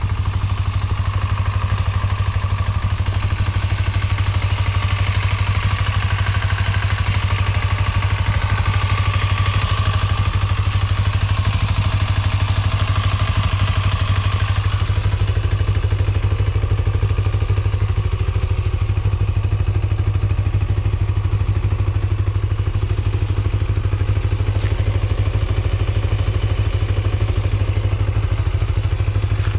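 Kawasaki GPX250's liquid-cooled parallel-twin engine idling steadily after a cold start, with no abnormal noise. Its higher mechanical whir eases off about halfway through while the even idle carries on.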